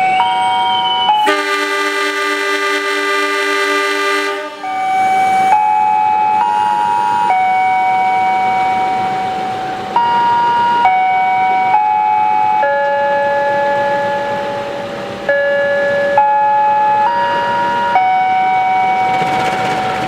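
A station public-address system plays an electronic instrumental melody, one sustained note after another. A fuller sustained chord sounds over the first few seconds.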